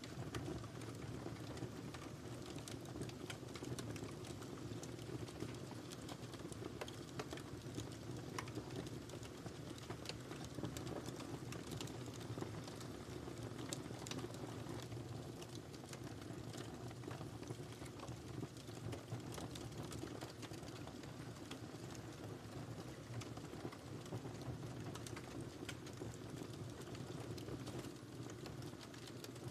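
Wood fire burning in a fireplace, crackling with frequent small sharp pops over a steady low rush of flame.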